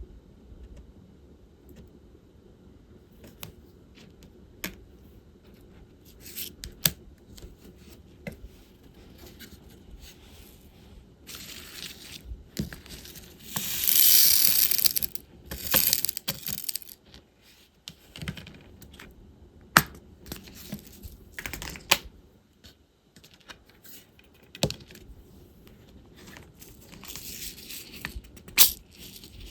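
Diamond painting work: scattered sharp clicks and taps from the drill pen, plastic bead tray and bead case, with a few longer bursts of rattling and crinkling about halfway through and again near the end.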